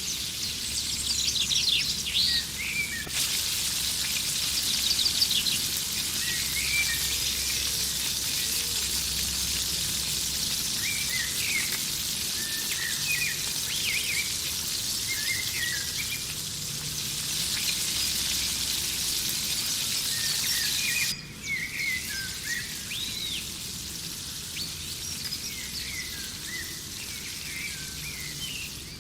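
Chicken frying in hot oil, a steady sizzling hiss, with birds chirping over it. The sizzle grows louder about three seconds in and drops sharply about two-thirds of the way through.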